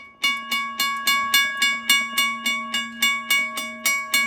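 Railroad crossing bell ringing with rapid strikes, about four a second, starting just after the start. The beat is uneven, which the owner puts down to an adapter that gives too little power for the crossing.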